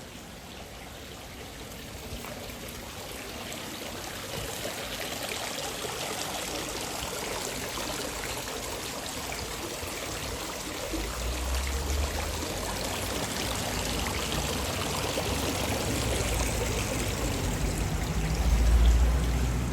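Running water splashing and pouring, growing steadily louder. Low rumbles come in about halfway through and again near the end.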